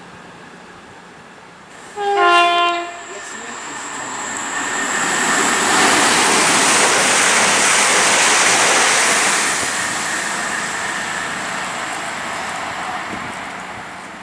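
CrossCountry Voyager diesel train sounding a brief two-tone horn, high note then low, about two seconds in. It then runs through the station at speed, its rushing noise building to a peak as the coaches pass and fading away.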